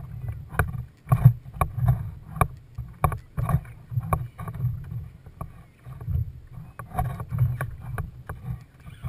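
Irregular knocks and splashes of water against a kayak's hull, over a steady low rumble.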